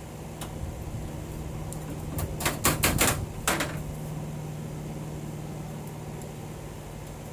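A quick cluster of about six sharp clicks or taps a couple of seconds in, over a steady low hum.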